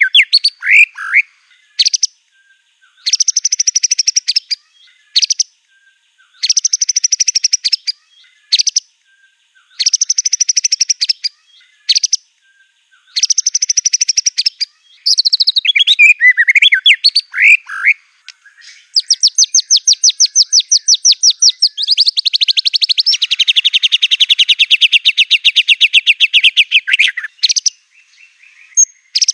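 White-rumped shama singing: short bursts of rapid trilled phrases about every three seconds, mixed with swooping whistled notes, then a long run of fast repeated notes lasting about eight seconds near the end.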